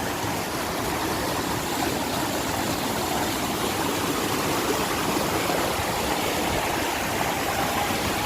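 Fast-flowing mountain stream rushing steadily over rocks.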